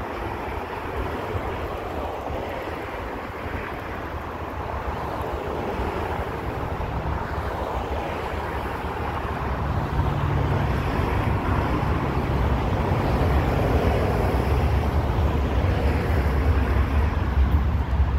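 Approaching train's rumble, growing louder through the second half as it nears, with wind buffeting the microphone.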